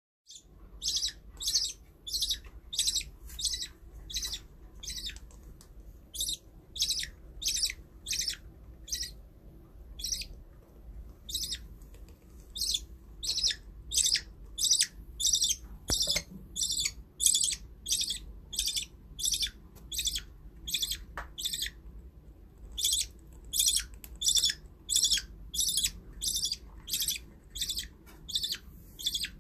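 Ten-day-old budgerigar chick calling: short high peeps repeated about twice a second, pausing briefly twice.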